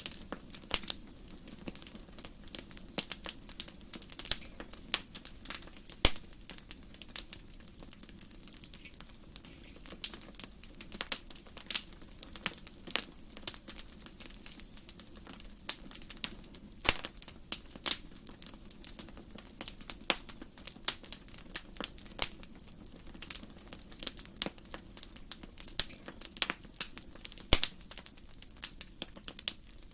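Wood fire burning in a fireplace: steady, irregular crackling and snapping, with sharper pops every second or so over a low steady rumble.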